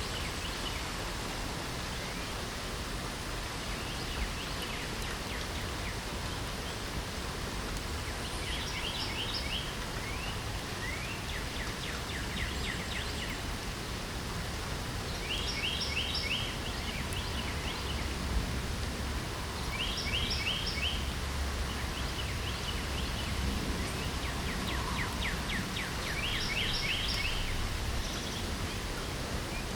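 Steady rain hiss with a songbird singing a short phrase of quick high notes again and again, about five times, roughly every four seconds from about eight seconds in.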